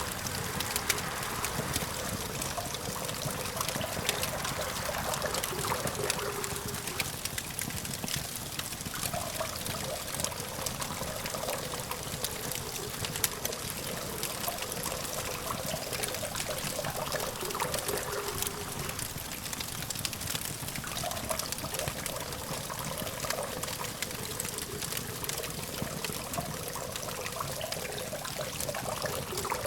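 Campfire crackling steadily, with frequent sharp pops and snaps over a continuous hiss, and a low, steady hum of distant traffic underneath.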